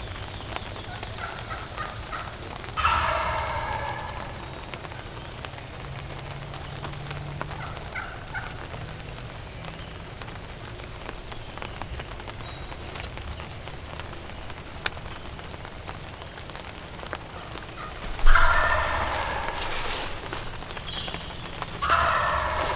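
Wild turkey gobbler gobbling three times: about three seconds in, much louder past the middle, and again just before the end, each gobble a rattling call that fades over a second or so.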